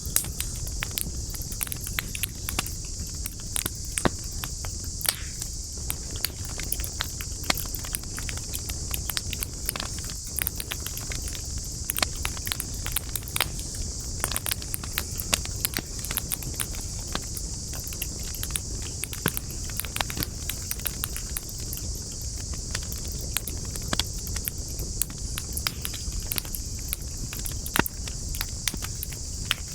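Wood campfire crackling, with irregular sharp pops several times a second, over a steady high-pitched hiss and a low rumble.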